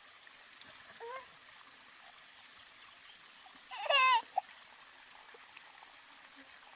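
Water trickling steadily. About four seconds in, a short high call rises and falls in pitch, with a fainter brief one near the first second.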